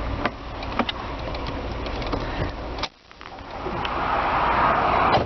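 A 2002 Nissan Pathfinder's 3.5-litre V6 idling, with a few sharp clicks and knocks as the hood is released. A little over halfway the sound drops out abruptly, then the engine's steady whir builds up louder, as heard at the open engine bay.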